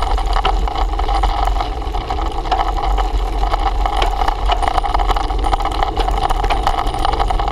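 Ride noise from a moving bicycle: steady wind rumble buffeting the microphone, with many small rattling clicks from the bike on a rough surface.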